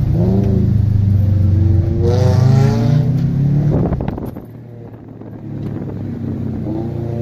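2003 Subaru WRX's turbocharged flat-four accelerating, heard from inside the cabin. The engine note rises, drops away and goes quieter about four seconds in, then starts climbing again near the end.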